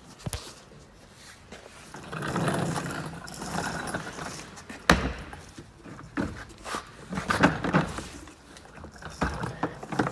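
Scattered knocks, rattles and rustling from handling parts in a car engine bay, with one sharp click about five seconds in and a run of knocks near the end.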